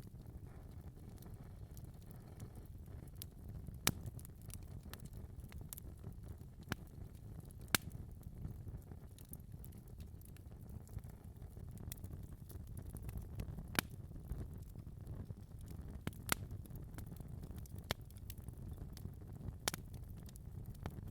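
Fire in a fireplace crackling: a steady low rumble of flames with small ticks throughout and a few sharp louder pops spread irregularly, the strongest about four and eight seconds in.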